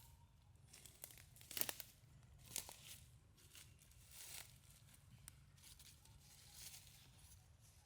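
Faint, short rustling and tearing noises, several separate bursts, loudest about a second and a half in.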